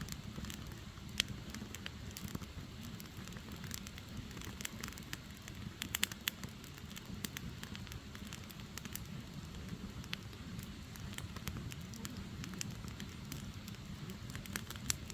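Firewood burning: frequent sharp crackles and pops over a steady low hiss of the flames, with a quick cluster of pops about six seconds in.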